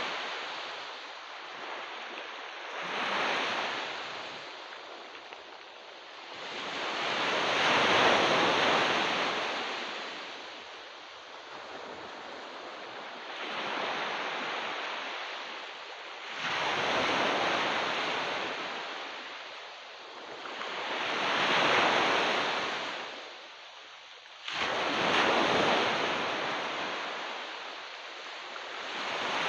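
Ocean surf: waves breaking and washing onto a beach, each surge swelling and fading every three to five seconds, with two waves coming in abruptly about halfway through and near the end.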